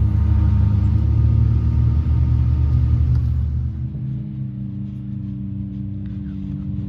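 Can-Am X3 Max's turbocharged three-cylinder engine running, then falling to a quieter steady idle about four seconds in as the machine stops.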